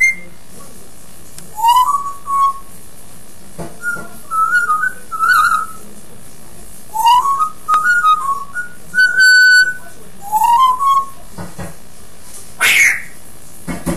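African grey parrot whistling a series of short whistles, several sliding up in pitch, with one held longer and louder about nine seconds in, mimicking the whistles used to call a dog.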